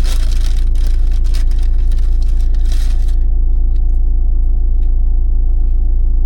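Vehicle engine idling with a steady low hum, heard from inside the cab. For the first three seconds there is crinkling and rustling, like food packaging being handled.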